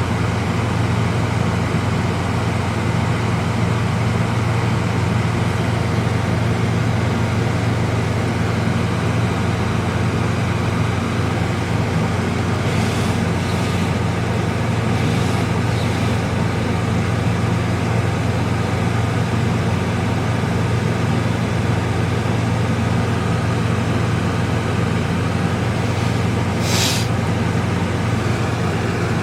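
Car heater fan blowing hard inside the cabin with the engine idling underneath: a steady rushing hiss over a low hum. There are a few faint, brief ticks partway through and near the end.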